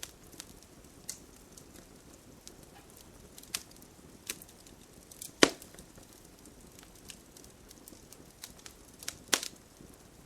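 Wood campfire crackling: irregular sharp pops and snaps over a low steady rustle of burning, with the loudest pop about halfway through and another strong one near the end.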